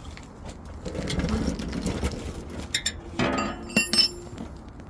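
Scattered light metallic clinks and knocks with handling noise, busiest about three seconds in.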